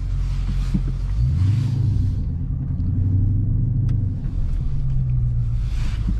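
Dodge Scat Pack's 392 HEMI V8 running at low speed, a steady low rumble that grows stronger about a second in, with a faint hiss over it.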